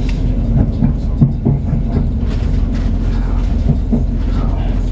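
Cabin sound of a moving Class 185 diesel multiple unit: a steady low rumble of its underfloor diesel engine and wheels on rail, with a few short knocks from the wheels in the first second and a half and once more near the end.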